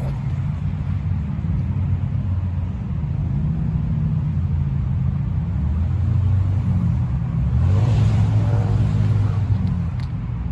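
2007 Yamaha YZF-R1's inline-four engine running through a full Akrapovic exhaust system, idling with a steady low rumble. About eight seconds in there is a brief louder, brighter stretch.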